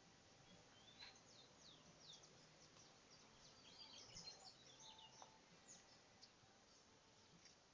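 Faint birdsong: many short, high chirps and whistles from several birds, busiest around the middle, over a low background hiss.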